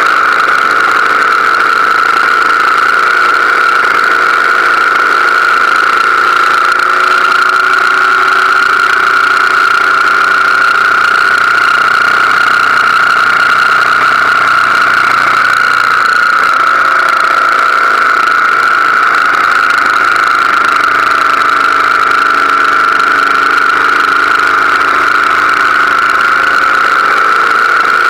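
BMW R1200GS Adventure's boxer twin engine running at a steady road speed, its pitch drifting slightly up and down with the throttle, over a steady hiss of wind and road noise.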